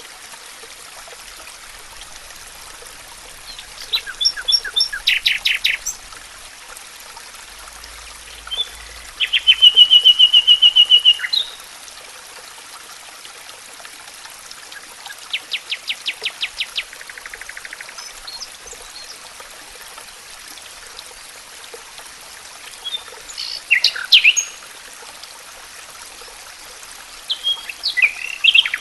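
Songbirds singing in separate bursts of rapid trills and quick note series every few seconds, the loudest a fast, even, high trill about ten seconds in. A faint steady hiss sits underneath.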